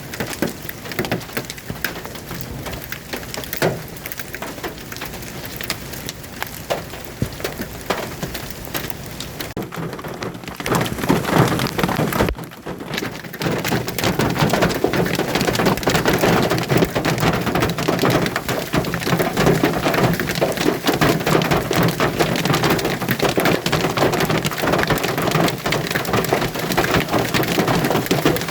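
Hailstones pelting down in a dense, rapid clatter of impacts. It grows heavier and louder about eleven seconds in, eases briefly a moment later, then keeps on at full strength.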